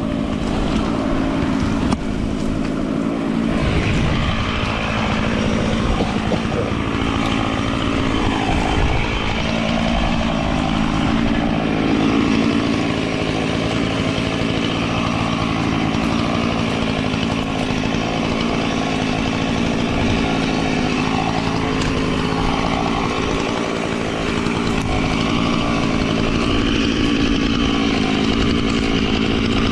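Chainsaw engine running continuously, its pitch dipping and rising a few times.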